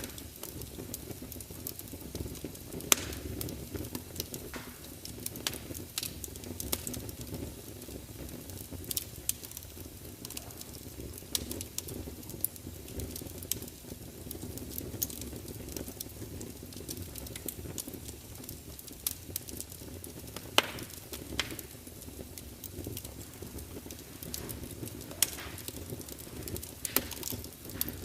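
Large wood fire burning in an open fireplace: a steady low rumble and hiss of the flames with frequent sharp crackles and pops from the logs, a few of them much louder than the rest.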